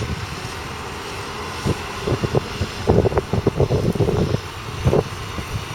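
Fendt 936 Vario tractor's 9.0-litre six-cylinder diesel running steadily, with irregular low thumps between about two and five seconds in.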